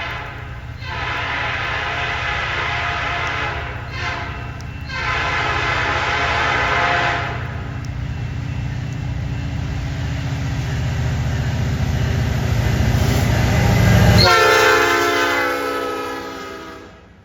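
Air horn on a CN freight train's lead diesel locomotive, sounding long blasts with short breaks over the rising rumble of the diesel engines. About 14 s in, the horn's pitch drops suddenly as the locomotive passes, and the horn and engine noise fade near the end.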